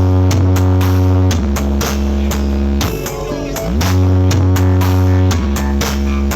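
Electronic dance music played loud through a large stack of Blizzard subwoofers: long, heavy bass notes under a steady drum beat. The bass eases off for a moment and comes back in with a rising sweep about four seconds in.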